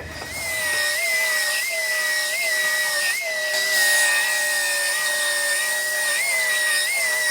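High-speed power tool running with a steady high-pitched whine, its pitch briefly bumping up and settling back several times as it is worked.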